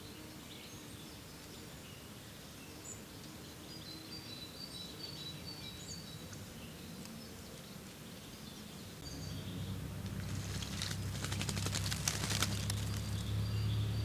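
Small songbirds calling in short high chirps and twitters. About two-thirds of the way in a low steady hum sets in and grows louder, and a brief crackling rustle sounds over it near the end.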